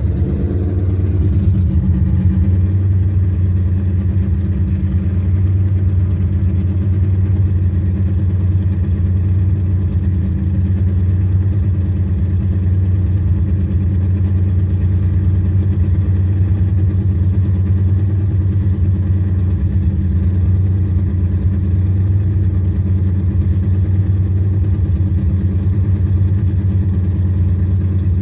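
Freshly built 6.2-litre LS3 V8 with 12:1 compression, PRC 260 heads and a TSP 243/255-111 cam, running steadily at idle on its first start-up.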